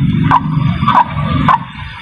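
White-breasted waterhen (ruak-ruak) calling: loud, harsh croaking notes repeated about twice a second.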